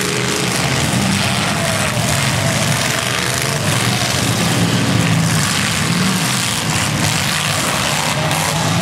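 Demolition derby car engines running loudly, their pitch rising and falling as they rev, over a dense wash of noise.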